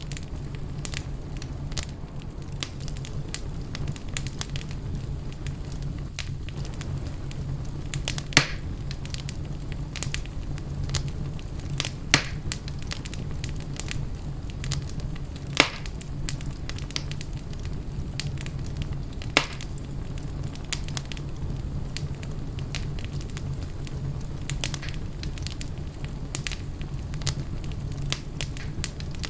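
Fire crackling in a fireplace: a steady low rumble of flames with frequent small crackles and four louder pops spread through the middle.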